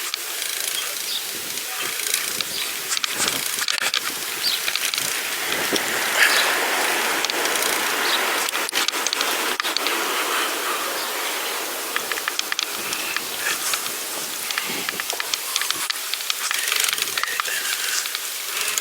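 Steady hiss of a pedal bike being ridden: tyres rolling on the path, with scattered clicks and rattles from the bike.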